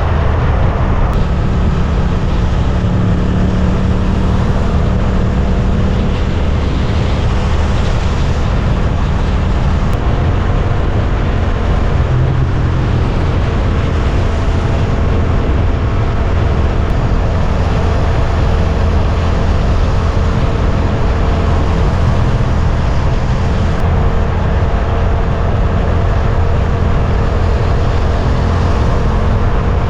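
Suzuki GSX-8S motorcycle's 776 cc parallel-twin engine running at a steady pace while riding, over a constant rush of wind and road noise.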